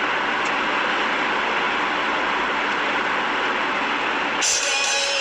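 Steady road noise of a car driving, tyres and engine heard as an even rush. About four seconds in it switches abruptly to a brighter, different-sounding stretch of noise.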